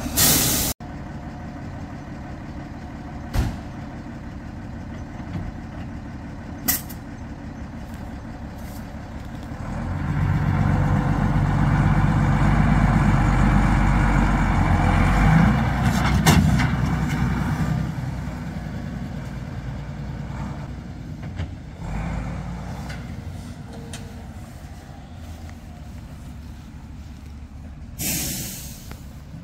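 A vehicle engine running while driving over rough off-road ground. About ten seconds in it gets much louder and heavier for roughly eight seconds as it pulls under load. A few sharp knocks come through, and a short rush of noise comes near the end.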